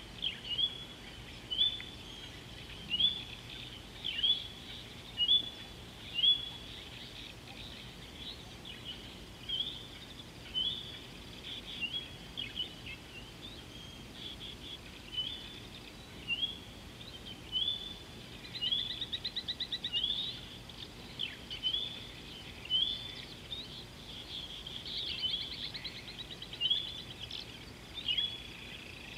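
Wild birds calling: a short whistled note repeated roughly once a second, with two rapid trills in the second half, over a faint steady background hiss.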